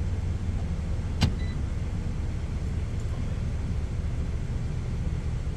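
Steady low rumble of an idling semi-truck engine heard from inside the cab, with a single sharp click about a second in.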